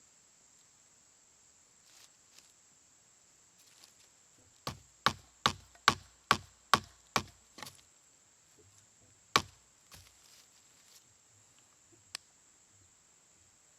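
Hemlock wood being chopped or split with a knife: a quick run of about eight sharp wooden strikes, a little over two a second, then two single strikes a few seconds apart.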